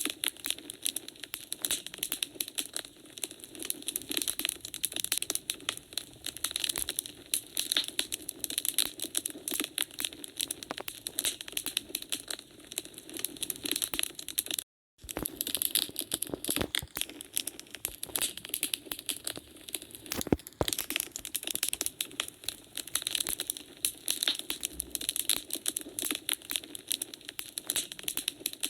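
Wood fire crackling in a fireplace: a dense, steady patter of small crackles and pops. The sound drops out completely for a split second about halfway through.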